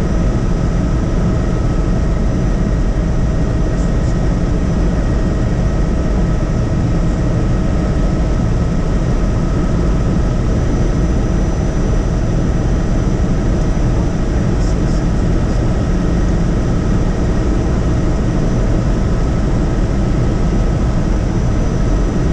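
Helicopter in flight, heard from inside the cabin: a steady, dense drone of rotor and engine, with a few faint steady whining tones over it.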